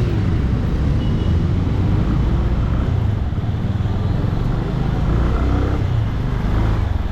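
Benelli 150i motorcycle running steadily while being ridden, its single-cylinder engine hum mixed with wind and road noise.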